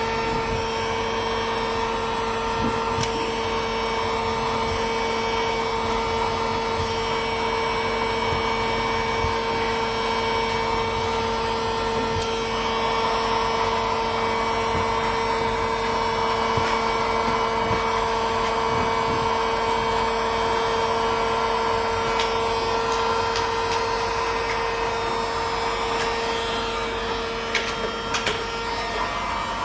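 Hot-air plastic welding gun blowing steadily with a constant whine while a crack in a plastic water tank is welded shut. The whine dips briefly near the end, where there are a few clicks.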